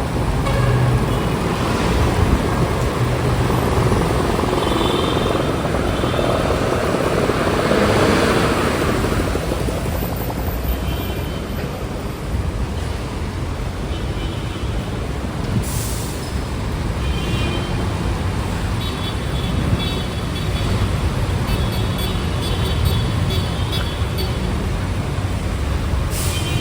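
Street traffic in heavy rain: a steady wash of rain and wet-road noise, with a vehicle passing about eight seconds in. Short high-pitched squeals come and go in the second half.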